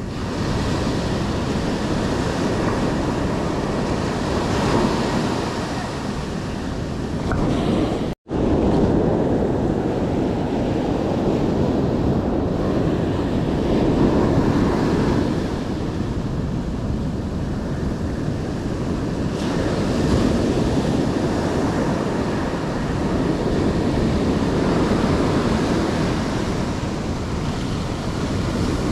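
Ocean surf breaking and washing on the beach in swells every few seconds, with wind buffeting the microphone. The sound cuts out for a moment about eight seconds in.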